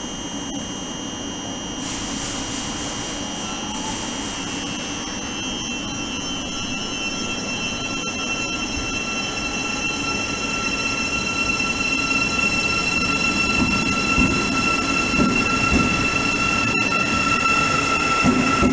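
Thameslink Class 700 electric train pulling out of an enclosed underground platform and picking up speed past the listener. Its rumble grows steadily louder, with steady high-pitched whining tones over it that come in after a few seconds.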